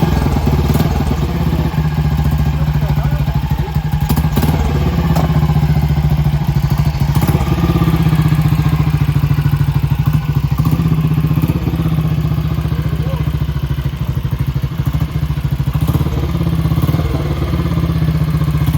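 1956 BSA Gold Star DB34's 500 cc single-cylinder engine running with an even, loud exhaust beat, freshly started after six years standing.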